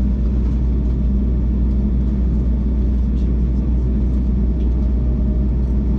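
Steady low rumble of a passenger jet's engines and airframe heard inside the airliner cabin, even in level throughout.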